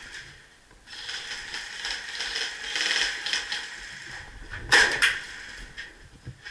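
Scraping, rustling noise, then a sharp, loud crack of two or three quick strokes just before the five-second mark.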